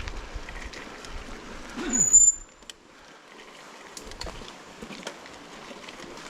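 Bicycle riding over rough ground, a rumble with small rattles and clicks. About two seconds in comes a short, sharp, high squeal, the loudest moment, typical of the bike's brakes, and then the rumble drops away as the bike slows.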